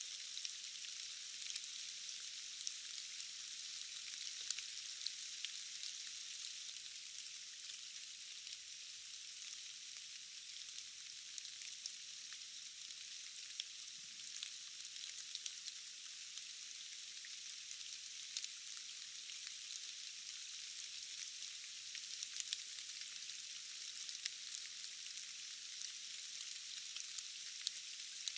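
Steady rain: an even hiss of many small drops, with scattered sharp single drop taps and almost no low rumble.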